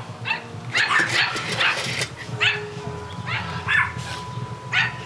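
Boxer dog barking in short, sharp bursts, about half a dozen times, in an excited greeting.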